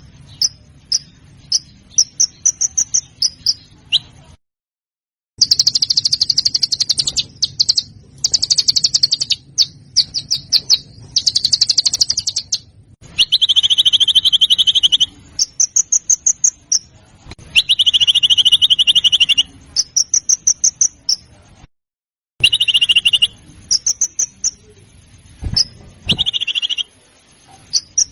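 Songbird song from a spliced 'masteran' tutor recording for competition birds: fast high trills and sharp chips alternating with harsh buzzy rattles of about two seconds each. It cuts to dead silence twice where recordings are joined.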